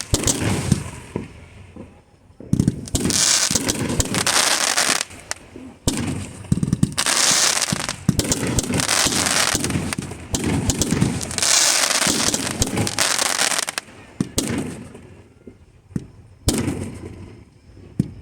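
Fireworks display: sharp bangs of shells bursting and several long stretches of dense crackling, each lasting a couple of seconds, with short lulls between.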